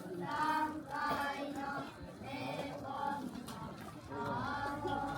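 Voices singing a slow traditional song in long held, wavering notes, with short breaks between phrases.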